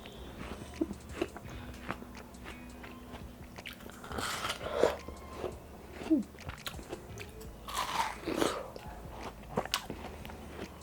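Biting into and chewing watermelon, with crunches and small mouth clicks and two louder bites about four and eight seconds in.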